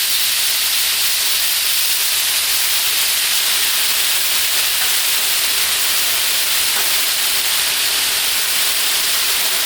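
Potato wedges sizzling steadily in oil and butter on a hot Blackstone griddle, a continuous even hiss.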